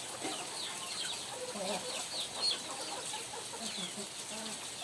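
Chickens clucking softly, with many short high peeps from chicks.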